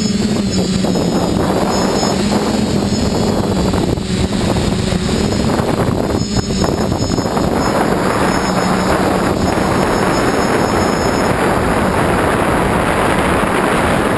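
TBS Discovery FPV quadcopter's motors and propellers running in flight, a steady hum with heavy wind rush that thickens into a dense rushing noise in the second half. The owner hears a strange noise from it at full throttle that only happens in the air, not on the ground, and does not know its cause.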